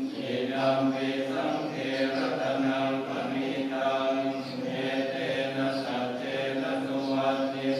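Buddhist chanting: male voices intoning in a low, steady monotone, one syllable after another.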